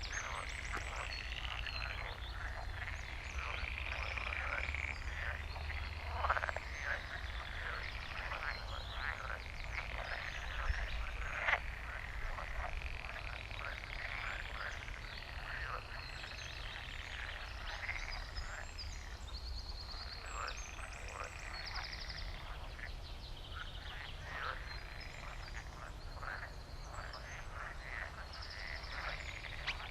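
A chorus of frogs croaking, many short calls overlapping and repeating throughout, with birds chirping higher above them and a low steady rumble underneath.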